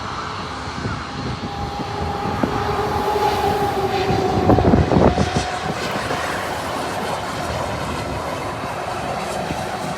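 Private jet's engines passing by, the whine drifting slightly lower in pitch as the sound swells to its loudest about halfway and then eases off. A brief cluster of rumbling knocks comes at the loudest point.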